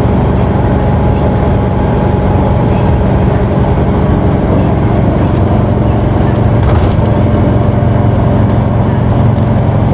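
Isuzu Erga city bus's diesel engine running steadily under way, heard from inside the cabin as a continuous drone with road noise. A short sharp clack about two-thirds of the way through.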